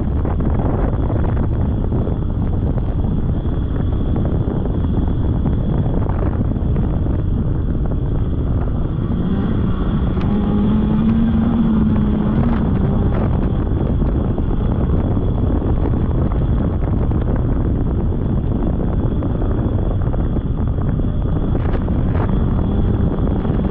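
Polaris snowmobile running along a trail, its engine under heavy wind buffeting on the microphone. About ten seconds in, a steady engine note stands out for a few seconds.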